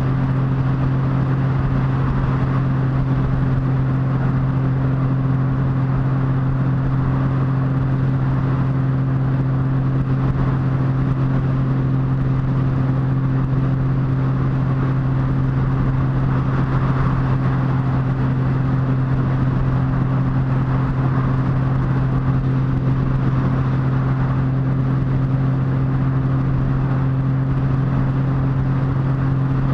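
Motorcycle engine running at a steady cruising speed, its note holding constant, over a steady rush of wind and road noise.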